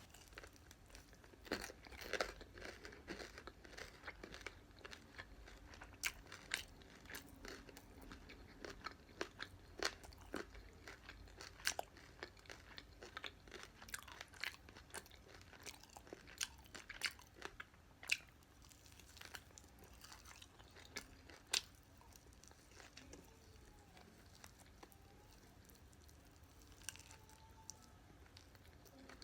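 Close-up chewing and biting of fried BBQ chicken, with many sharp, irregular crunches from the fried coating and wet mouth sounds. The crunches thin out over the last several seconds.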